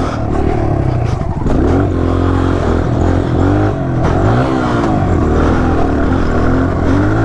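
Dirt bike engine running while riding, its revs rising and falling again and again as the throttle is worked.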